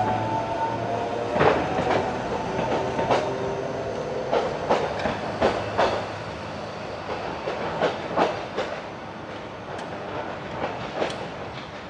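Narrow-gauge train moving off, its wheels knocking irregularly over rail joints and points, the clatter growing fainter as it goes. A motor whine fades out about a second in.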